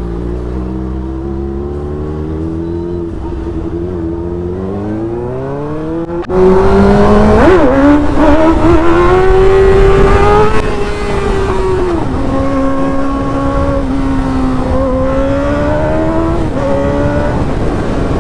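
Suzuki GSX-R600 inline-four sport-bike engine accelerating through the gears. The revs climb, and about six seconds in the sound suddenly gets much louder. The pitch drops at shifts around twelve and seventeen seconds.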